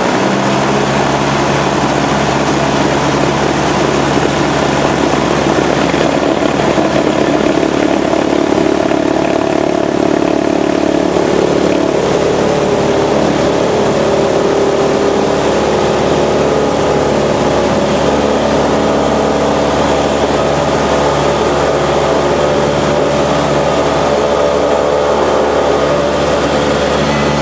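Light aircraft's propeller engine opened up to full power for the takeoff run, the pitch jumping up at the start and then holding a steady, loud drone.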